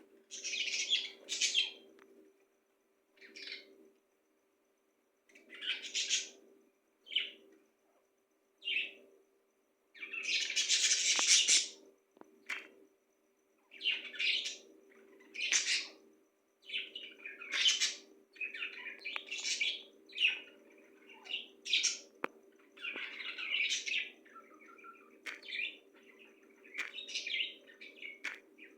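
Pet birds chirping and calling in short, irregular bursts, sparse at first and almost continuous in the second half.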